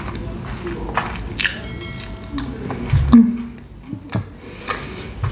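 Chewing and mouth sounds into a close microphone, overlaid by a short chiming sound effect about a second and a half in and a thump about three seconds in, the loudest moment.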